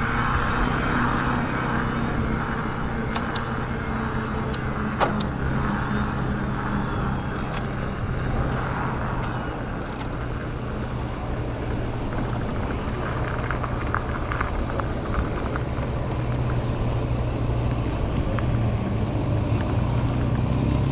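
Steady rushing noise of riding an electric bike, with a few sharp clicks about three to five seconds in.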